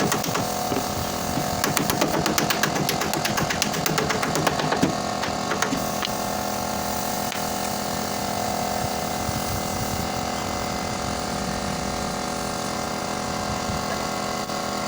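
A power tool at work on car body panels: rapid rattling strokes for the first five seconds or so, then a steady running hum.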